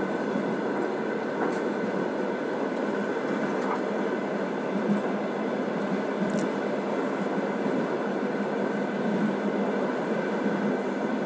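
Steady running noise of a moving train heard from inside the carriage: an even rumble of wheels on track, with a couple of faint clicks.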